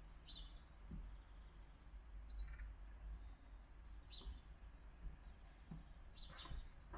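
Near silence inside a parked car, with a low steady hum and a few faint bird chirps about two seconds apart.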